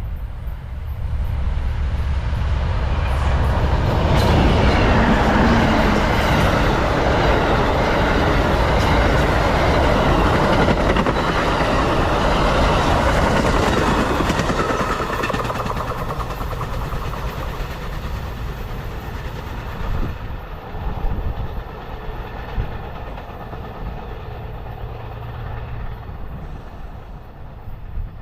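Amtrak passenger train (train 98, the Silver Meteor) passing at speed. The rushing noise builds over the first few seconds, stays loud for about ten seconds, then eases as the train goes by, with a few sharp clacks from the wheels in the later part.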